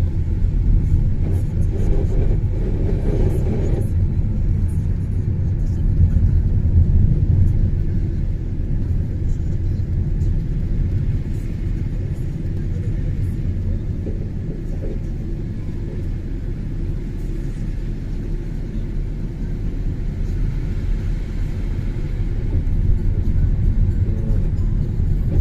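A vehicle driving on a snowy road: a steady low rumble of tyres and engine, slightly louder in the first several seconds.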